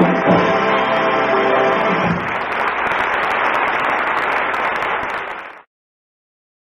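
The orchestra and chorus holding the song's final notes, then audience applause breaking out about two seconds in and running for some three and a half seconds before it is cut off suddenly. The sound has the narrow, muffled range of a 1945 radio transcription.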